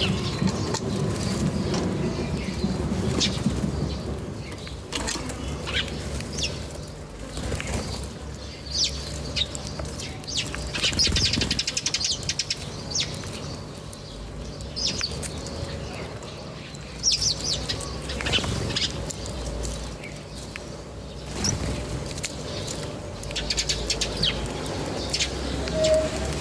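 Small birds chirping in short, scattered high calls, with a quick trill about eleven seconds in, over a steady low rumble.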